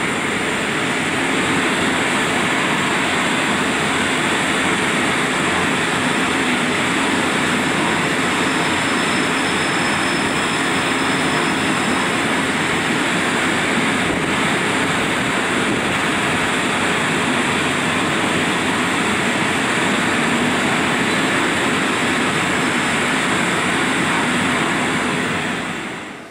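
SNCB electric multiple unit passing close along the platform: a steady, loud rumble of wheels on rail and running gear, fading out at the very end.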